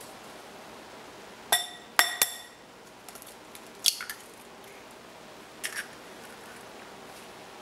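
Kitchen utensil clinking against a dish: three sharp ringing clinks in quick succession about one and a half seconds in, then two softer clicks later, over a faint steady hiss.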